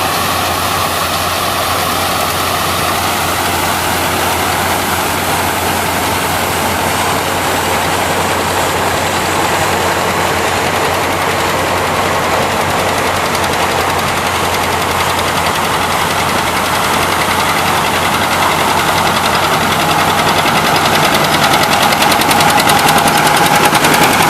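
Engine of harvesting machinery running steadily, growing a little louder over the last few seconds.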